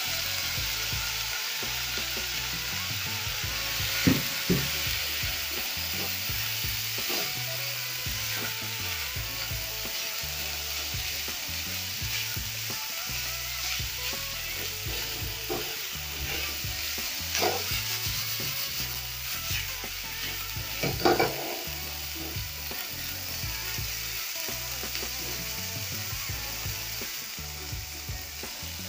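Beef liver strips and onions sizzling steadily in a hot frying pan while a spatula stirs them, with a few sharp knocks of the spatula against the pan.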